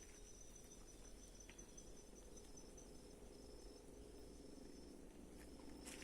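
Faint, steady high-pitched insect call, a thin unbroken trill with a couple of brief gaps. Near silence otherwise, with one faint click about a second and a half in.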